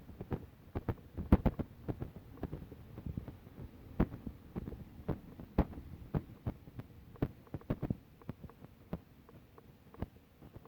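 Irregular low thumps and knocks from walking with a handheld camera, footsteps and handling bumps on the microphone, a few of them sharp clicks.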